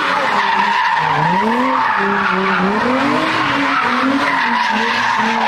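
Car engine revving up and down over a continuous tire squeal.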